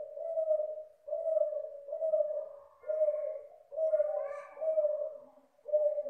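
Spotted dove of the Sinom F1 type cooing in a steady series: about seven low coo notes, each under a second long, follow one another with short gaps.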